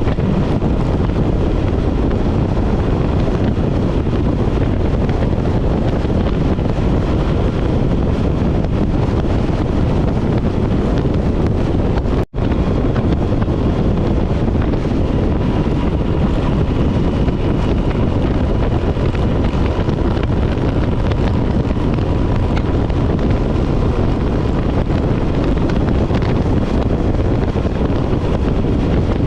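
Wind buffeting the microphone of a moving motorcycle, with engine and road noise steady beneath it. The sound cuts out for an instant about twelve seconds in.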